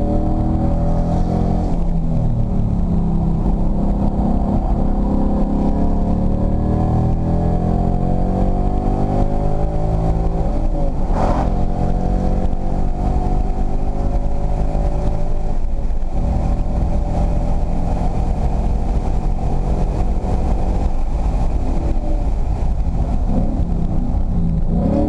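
2016 Ford Mustang's engine heard from inside the cabin, pulling hard under full throttle with the revs climbing, an upshift about eleven seconds in, then climbing again before the throttle closes and the revs fall away near the end.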